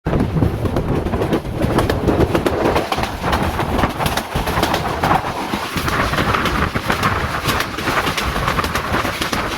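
Train running on the rails: a steady rumble with rapid clicking and clatter.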